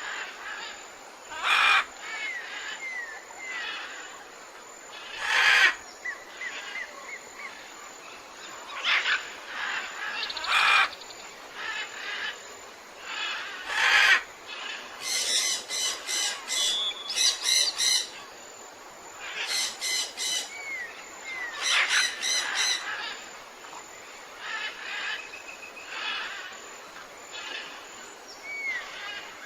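Several birds calling in a tropical forest. Loud short calls come every few seconds, with fast chattering runs of repeated notes and short whistled slurs between them.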